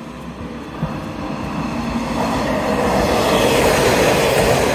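A Sanriku Railway diesel railcar approaches and passes close by. Its engine and wheel noise grows steadily louder and is loudest around three to four and a half seconds in.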